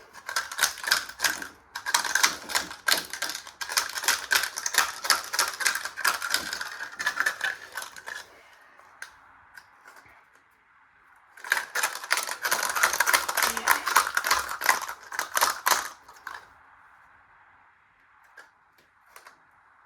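Washing machine running with a coin loose inside it: a fast, dense metallic clattering. It comes in two bursts of several seconds each and fades to a few faint clicks near the end.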